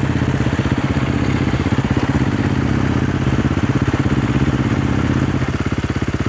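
KTM 350 XC-F's single-cylinder four-stroke engine idling steadily, a fast, even pulse at constant pitch. The idle softens slightly near the end.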